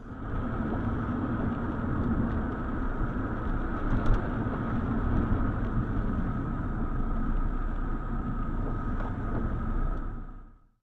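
Steady car driving noise, engine and road rumble, with a faint steady whine and one short knock about four seconds in. It cuts off suddenly just before the end.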